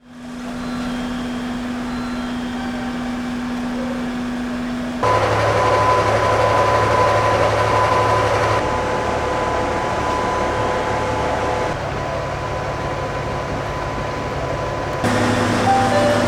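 Onboard running sound of a KiHa 11 diesel railcar: engine and drive hum with steady whining tones over the rumble of the ride, in several spliced shots that switch abruptly about five, eight and a half, twelve and fifteen seconds in.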